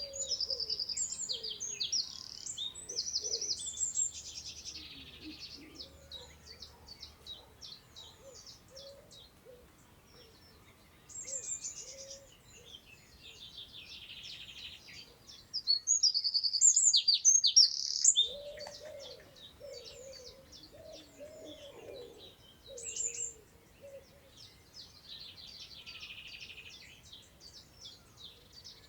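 Several songbirds singing and chirping in quick, high phrases, loudest in a bright burst about two-thirds of the way through. Lower, wavering calls sound underneath.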